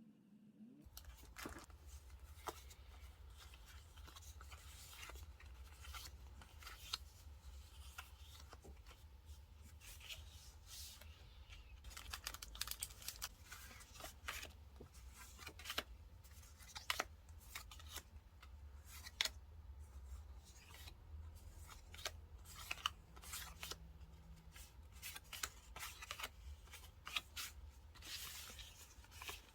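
Paper and stickers being cut and handled: a scattered run of short snips, clicks and rustles over a low steady hum.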